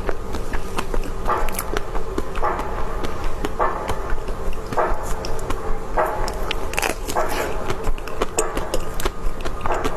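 Close-up mouth sounds of someone eating chocolate mousse: wet smacking and chewing, a soft burst about once a second, with small sticky clicks in between.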